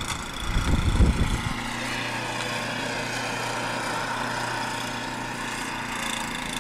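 An engine running steadily at idle with a low, even hum. Low rumbling bumps on the microphone about a second in.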